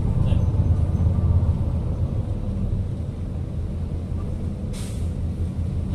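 City bus engine and road rumble heard from inside the passenger cabin, a little louder for the first second and a half, with a short hiss of air about five seconds in.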